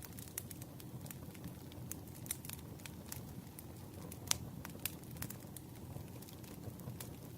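Campfire crackling: irregular sharp pops and snaps over a low steady rumble of burning, with one louder pop a little past the middle.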